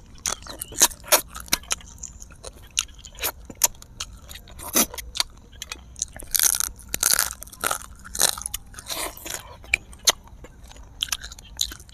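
Close-miked eating: two people chewing and crunching braised fish with many sharp mouth clicks and smacks. The crunching gets louder and denser about six seconds in and again around nine seconds.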